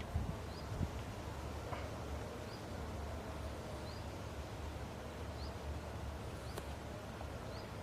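A small bird repeating a short rising chirp about once a second, over a steady low rumble. Two soft thumps come in the first second.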